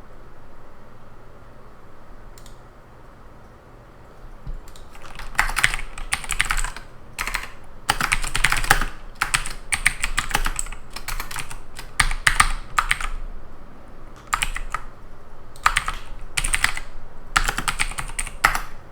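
Typing on a computer keyboard in short runs of rapid key clicks with brief pauses between them, starting about five seconds in after a quiet stretch.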